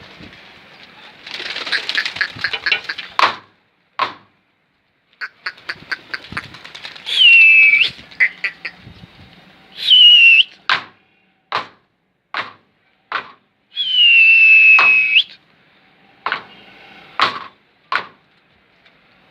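Pigeon keeper whistling to pigeons: three loud whistles, each dropping a little in pitch and held about a second, among a string of sharp claps, with a rapid flurry of claps early on.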